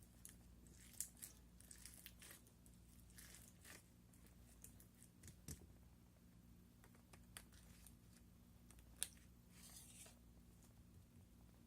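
Slime being squeezed and pulled by hand: faint, scattered crackles and small clicks and pops, with a steady low hum underneath.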